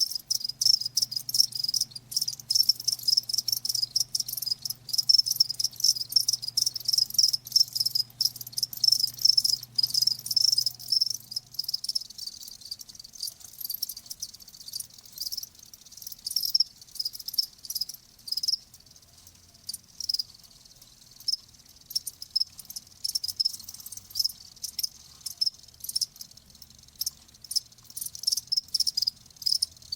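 Crickets chirping in fast, repeated high-pitched pulses. The chirping is dense for the first half, then thins to more broken, intermittent chirps.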